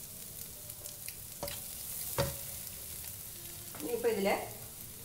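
Onion, egg and green chilli frying in a nonstick pan with a steady light sizzle, stirred with a wooden spatula that knocks against the pan twice, about one and a half and two seconds in. A brief voice sound about four seconds in.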